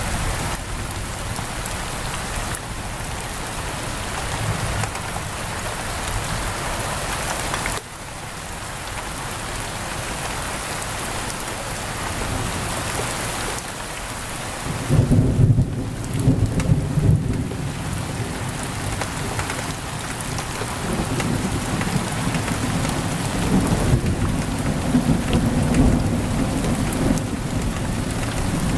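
Heavy rain pouring steadily against a window. About halfway through a low roll of thunder rumbles in, loudest at first, then lingering to the end.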